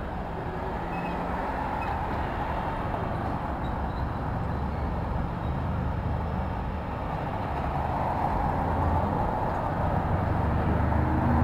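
City street traffic: a steady mix of engine hum and tyre noise from passing cars and trucks, growing gradually louder toward the end as a vehicle draws close.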